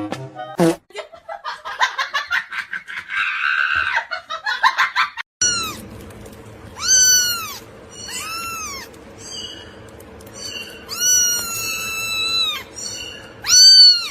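A cat meowing again and again, five or six high calls that each rise and fall in pitch, after a few seconds of a rapid fluttering, pulsing sound.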